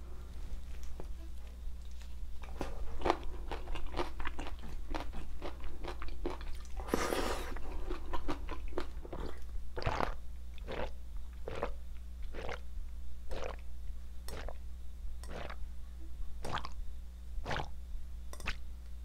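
Close-miked chewing and crunching of food, then a long drink from a glass with gulps coming about once a second.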